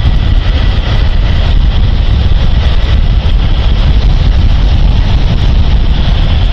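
Loud, steady wind rush on the microphone of a moving motorcycle, with road and engine noise mixed in.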